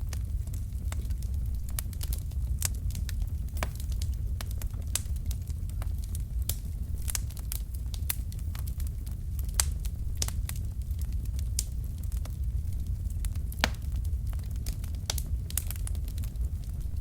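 Wood fire of burning logs crackling: scattered sharp pops and snaps at irregular intervals over a steady low rumble of the flames.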